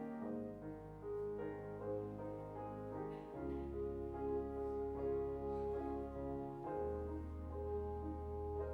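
Slow instrumental keyboard music: sustained chords over long held bass notes that change about every three seconds.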